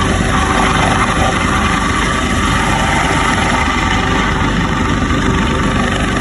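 US Coast Guard MH-65 Dolphin helicopter hovering, its twin-turbine engines and rotor running in a loud, steady drone with a fast low flutter.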